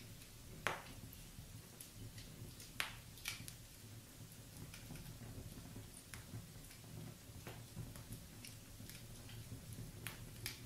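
Wood fire in a fireplace crackling: irregular sharp pops and snaps over a low, steady rumble of the flames. The loudest pops come a little under a second in and again near three seconds.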